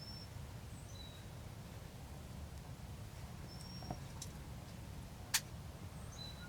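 Quiet outdoor background with a steady low rumble, a few faint, short, high chirps from small birds, and a sharp click about five seconds in.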